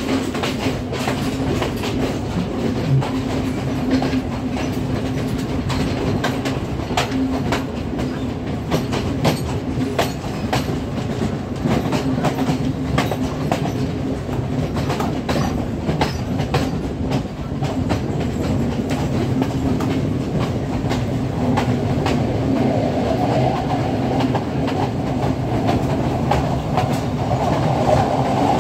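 Passenger train carriage running along the track, heard from its open doorway: a steady rumble and hum of the wheels with frequent sharp clicks of clickety-clack over the rails. A higher-pitched noise grows louder over the last several seconds.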